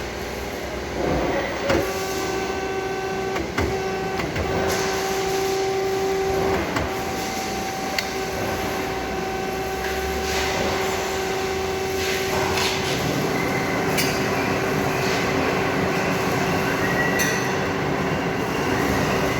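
Automatic muffler-pipe cutting machine running in automatic mode: a steady mechanical hum with a held tone, and a few sharp clacks as it works.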